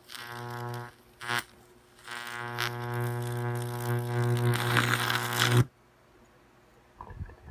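High-voltage arc from an oil-cooled microwave oven transformer, buzzing at mains hum with many overtones. It comes as a short burst, a brief blip, then a longer arc of about three and a half seconds that grows louder and cuts off suddenly, with a few faint crackles near the end.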